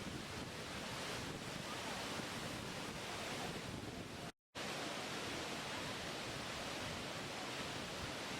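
Steady rushing water of a waterfall, an even hiss of noise, broken by a dead-silent gap of a fraction of a second about four and a half seconds in where the recording cuts.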